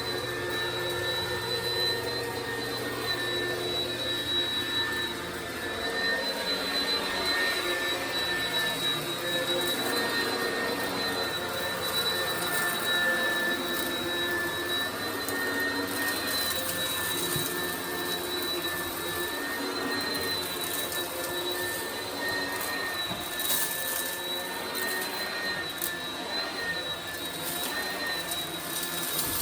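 Oreck XL upright vacuum running over carpet with a steady high-pitched motor whine, sucking up kitty litter that crunches and crackles as it goes, with the crackling thickest toward the end.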